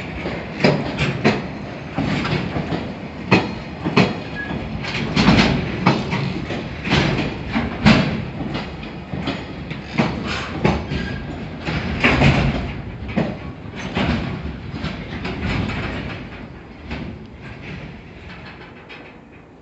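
A train running on the rails, its wheels clattering over the rail joints in a rapid, uneven run of clacks over a rumble, dying away over the last few seconds as it moves off.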